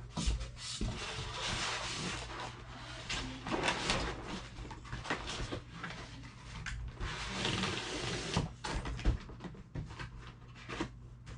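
Rustling of box packaging with scattered knocks and clicks as the parts of an RC airplane kit are handled and packed back into the box.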